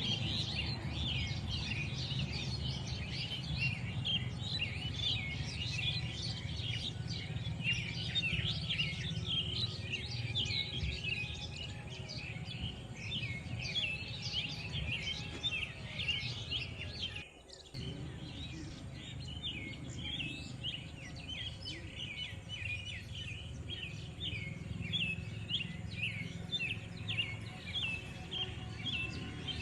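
Dense chorus of many small birds chirping rapidly and continuously over a steady low background hum. Everything drops out for a moment about halfway through, then resumes.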